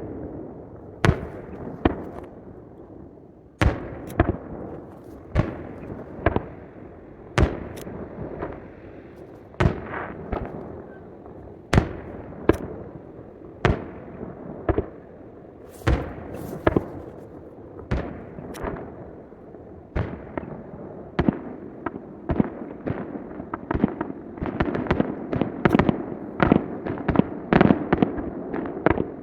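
Aerial fireworks shells bursting in a display: sharp booms about once a second over a steady crackle, coming faster and denser in the last few seconds. The footage is played back at triple speed.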